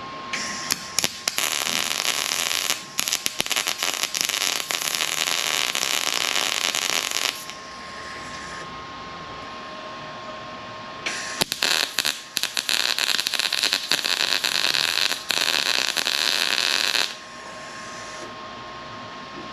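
A power tool working on car body metal in two long bursts, about seven and six seconds each, a loud hiss with crackling clicks through it that starts and stops sharply. A faint steady whine sounds between the bursts.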